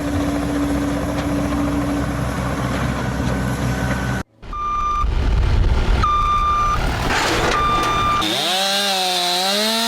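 Heavy vehicle engine running with a low rumble, then a reversing alarm beeping three times, about a second apart, over the engine noise. Near the end a pitched drone takes over, wavering up and down in pitch.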